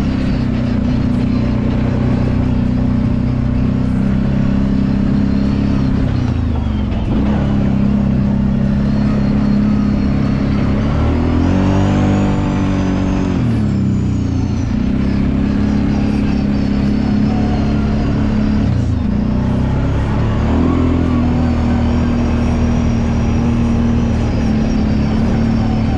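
Kawasaki Brute Force 750 ATV's V-twin engine running while riding, its pitch dipping and rising with the throttle, with a clear rise and fall in revs about halfway through.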